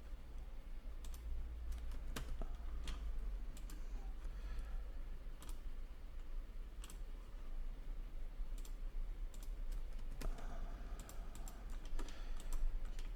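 Scattered, irregular clicks of a computer keyboard and mouse as values are typed and options picked, over a steady low hum.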